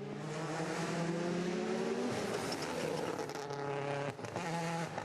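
WRC rally car engine accelerating hard, its note climbing, dropping back at a gear change about two seconds in, then climbing again.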